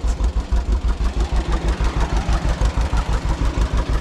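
Two-cylinder John Deere tractor engine running steadily under the load of a corn picker, with an even low pulse of about seven beats a second.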